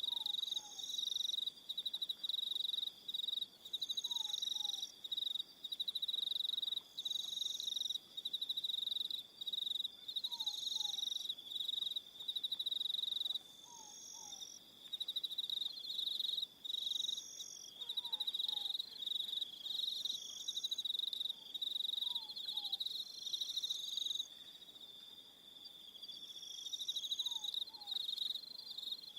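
Evening chorus of crickets: a dense, high trill that drops out briefly now and then. Higher repeated calls sound every few seconds, and a faint pair of falling notes recurs in the background.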